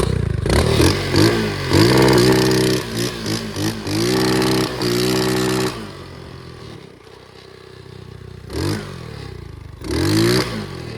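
Pit bike engine revved in a run of quick blips for the first six seconds, then dropping back to a low idle, with two more short revs near the end.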